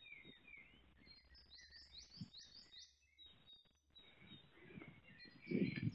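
Faint birdsong: scattered high chirps, with one bird giving a quick run of about six short falling notes about two seconds in.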